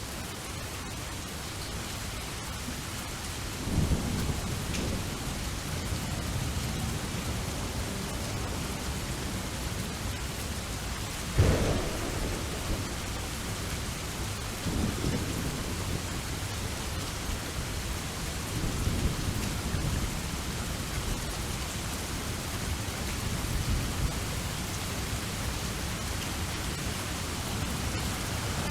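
Steady rain falling, with thunder rumbling several times and one sharp, loud thunderclap about eleven seconds in.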